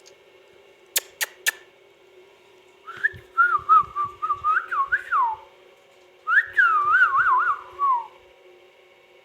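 Ringneck parakeet whistling two warbling phrases that glide up and down, about two seconds each with a short pause between, after three sharp clicks about a second in.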